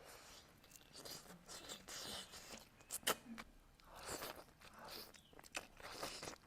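Close-miked chewing and wet mouth sounds of someone eating galangal chicken, in irregular bursts, with one sharp click about three seconds in.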